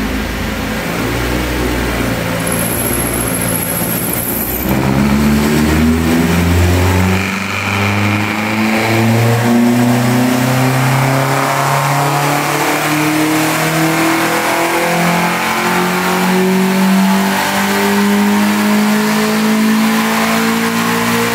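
Ford 1.4 Sigma four-cylinder engine on carburettors, run under load on a rolling-road dyno. It holds low revs for a few seconds, then the revs climb steadily and evenly through a long power pull.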